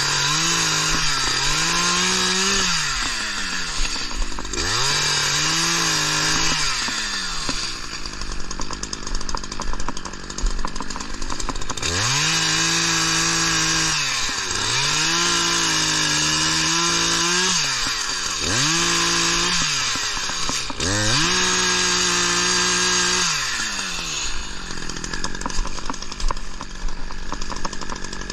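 Two-stroke chainsaw revving in repeated bursts of about two seconds, its pitch climbing and then falling back to idle between bursts, about seven times.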